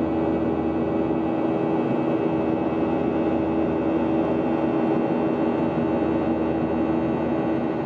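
Steady cabin drone of a Boeing 737-800 in flight: the rush of its CFM56 jet engines and airflow, with a steady humming tone on top.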